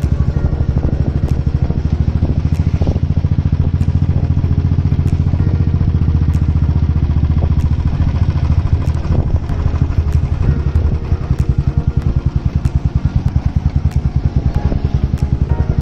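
Royal Enfield Classic 350's single-cylinder engine running with a steady, rapid beat.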